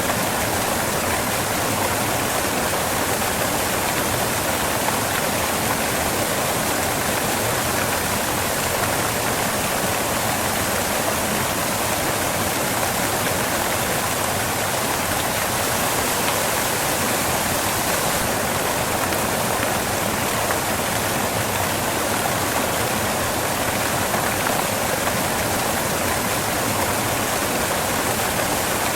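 Waterfall crashing onto rocks: a steady, unbroken rush of falling water.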